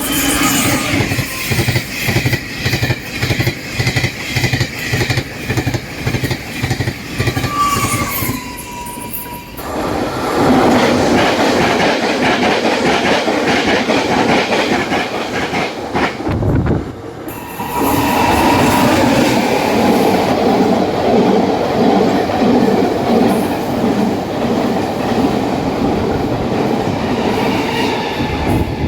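Taiwan Railway trains passing at high speed, one after another, with the wheels clattering rhythmically over the rail joints (fishplates). The sound breaks off abruptly twice and starts again with a new pass.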